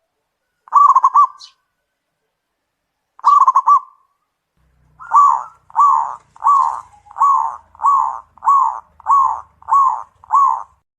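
Zebra dove (perkutut) cooing: two short trilled coos, then a run of nine clipped coos at about two a second.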